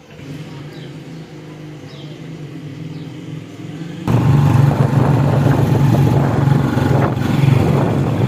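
A freshly tuned Honda 125 motorcycle engine running steadily and growing louder. About four seconds in it jumps much louder, with rushing wind noise over the engine as the bike is ridden.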